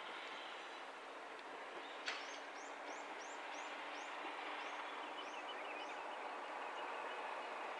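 NT3000 diesel railcar approaching, its steady running noise growing slowly louder. A sharp click about two seconds in, then a bird calls a quick series of about nine high chirps.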